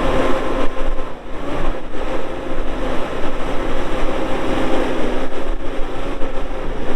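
Bobcat S770 skid steer's diesel engine running steadily under operation, with a steady droning hum and a brief dip in loudness about a second in.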